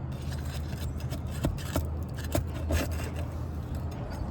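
A pry tool scraping under asphalt shingles and prying roofing nails, with several sharp clicks about a second to three seconds in, as a nail pulls through the brittle shingle.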